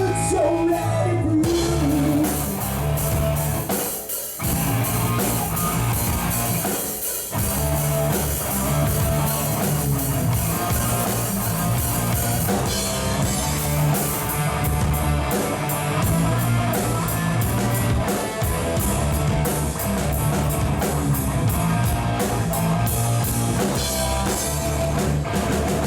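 Rock music with guitar and a drum kit playing at a steady beat.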